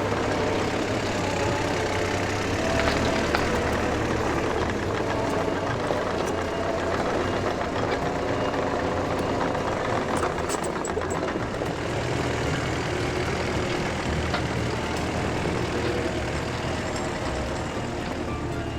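Skid steer's engine running steadily while it works moving logs.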